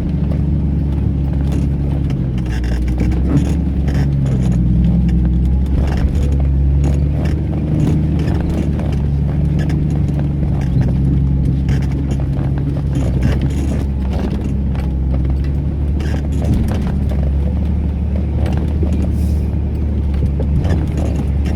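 Car engine and drivetrain running steadily while driving on a rough, uneven track, heard from inside the cabin, with frequent small knocks and rattles from the bumpy ride.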